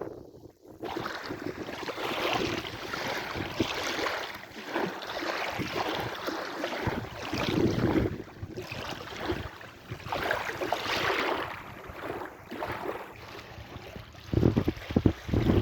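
Sea waves washing in slow surges, with wind buffeting the microphone; the buffeting turns into loud low rumbles near the end.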